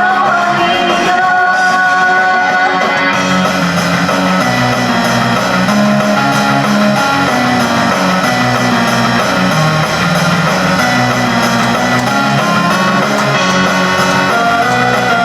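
Upbeat J-pop idol song with guitar, bass and drums, and a female voice singing over it.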